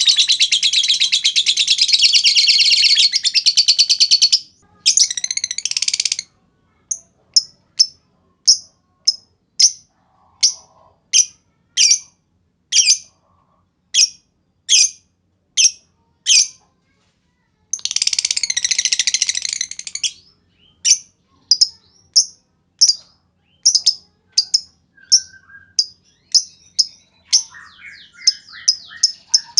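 Lovebird calling: long, shrill, rapid trills (ngekek) lasting a few seconds, alternating with runs of single sharp chirps repeated about twice a second.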